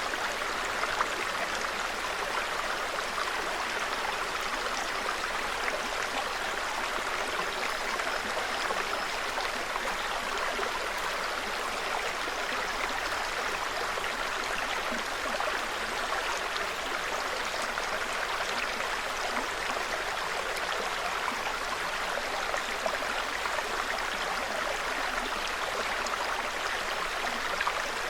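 Small forest brook running over stones, a steady babbling trickle of water.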